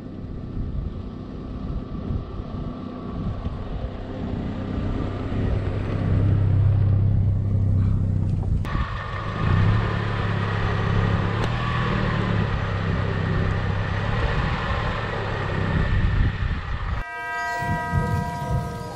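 Hindustan Contessa's 1.8-litre Isuzu inline-four engine running through a loud exhaust as the car drives, a steady low engine note. It breaks off sharply about nine seconds in and picks up again. Near the end the engine note stops and several steady higher tones take over.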